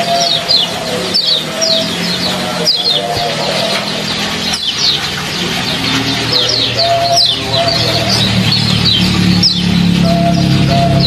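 Small bird chirping 'ciak ciak' in quick clusters of high, falling notes, repeated every second or so, over a steady trickle of water. Faint music with low notes grows near the end.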